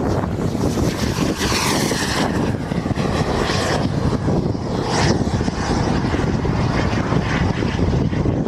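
Radio-controlled jet plane flying by, its high jet rush swelling and fading several times over a steady low rumble.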